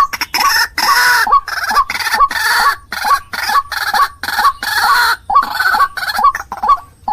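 White-breasted waterhen (ruak-ruak) calling loudly and without a break: short, quickly repeated notes alternating with longer harsh, raspy calls, about two or three a second.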